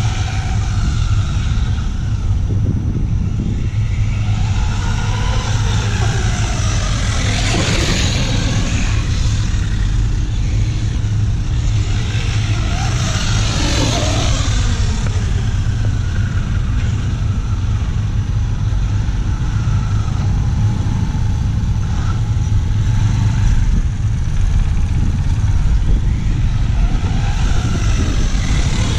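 Remo Hobby Dinosaurs Master 5 RC monster truck running on 3S, its electric motor whining up and down in pitch as it speeds up and slows. The motor swells loudest twice, about 8 and 14 seconds in, over a steady low rumble.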